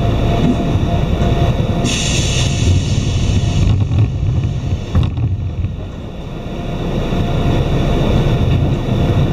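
Iyotetsu commuter train standing at a station: the steady low rumble and hum of its running equipment, heard from inside the car. A hiss starts about two seconds in and lasts a little over a second, and a short click follows about three seconds later.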